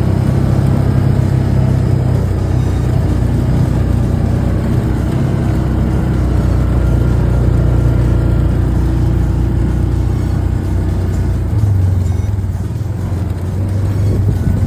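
A motor vehicle's engine running steadily while driving: a steady low drone with road noise.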